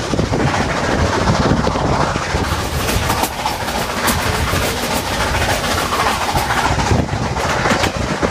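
Steam-hauled passenger train running along the track, heard from an open car window: a steady heavy rumble of the cars and wheels, with a run of sharp clicks as the wheels cross rail joints about three to four seconds in.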